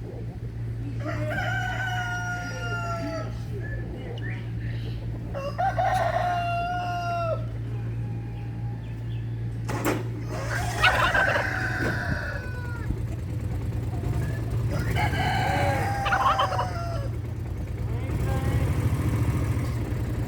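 Rooster crowing repeatedly, about five long crows a few seconds apart, over a steady low hum.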